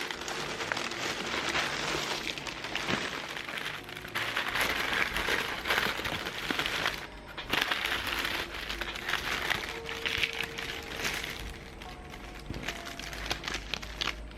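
Dense crinkling, rustling noise that comes and goes, dropping away briefly about seven seconds in, over soft background music.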